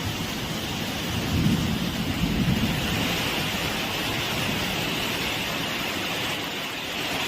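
Steady rushing noise of water, with a low rumbling swell about one to three seconds in.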